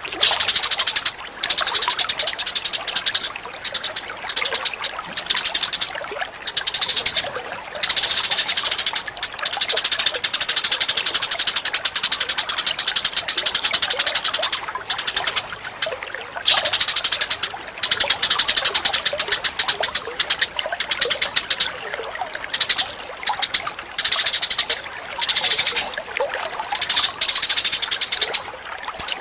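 Recorded bird calls for song training: rapid, dense chattering trills in bursts of a second to several seconds with short breaks between them, over a faint bed of running water.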